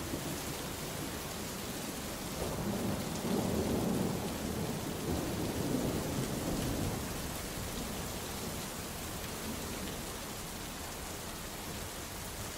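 Steady rain hiss with a rolling thunder rumble that swells a couple of seconds in, peaks twice, and fades away by about seven seconds.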